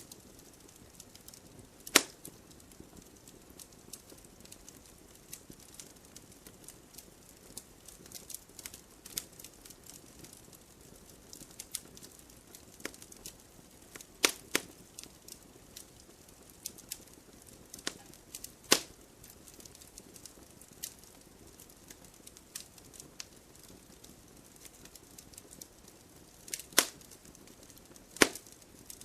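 Wood fire crackling in a fireplace: a steady scatter of small clicks over a faint hiss. Louder sharp pops come every few seconds; the strongest is about two seconds in, and two more come near the end.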